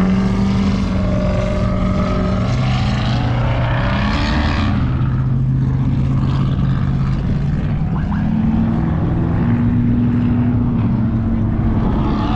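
Vehicle engines running over a constant wash of noise, their pitch stepping up and down every few seconds, with brief voices near the start and about four seconds in.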